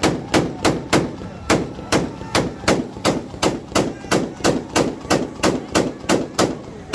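Loud car exhaust at an exhaust competition firing off sharp bangs in a rapid, even rhythm, about three a second.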